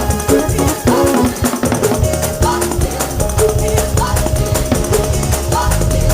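Loud up-tempo church band music with a steady driving beat on drums and a heavy bass, a short melodic figure repeating over it.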